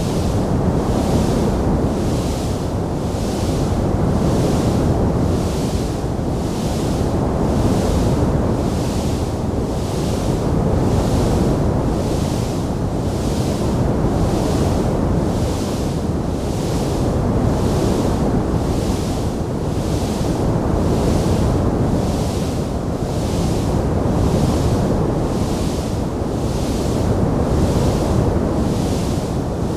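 Wood fire burning in a fireplace: a steady low rumble with a hiss that pulses evenly about once a second, and no distinct crackling pops.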